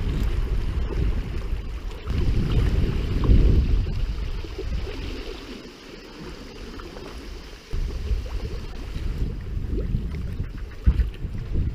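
Gusty wind rumbling on the microphone of a sea kayak on open water, with water sounds beneath. It eases off in the middle and picks up sharply again a little after halfway.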